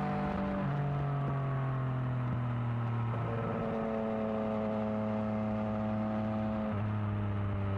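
Yamaha XSR900's inline three-cylinder engine running under way through a new exhaust. The engine note drops about a second in, jumps back up around three seconds in, holds steady, then drops again near the end.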